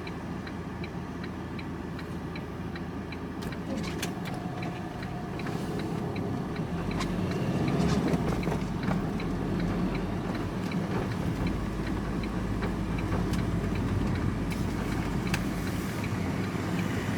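Engine and road noise heard from inside a moving vehicle's cab, with a turn-signal indicator ticking steadily for the first several seconds. The engine and road noise grow louder about six to eight seconds in, as the vehicle picks up speed.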